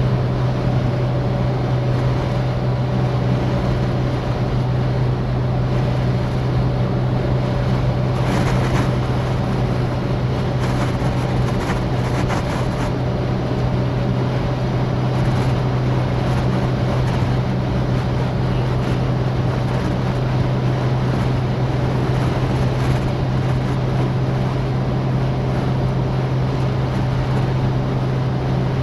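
Citroën DS four-cylinder car being driven at a steady speed: a steady low drone of engine and road noise. A few brief crackles of noise come about a third of the way through.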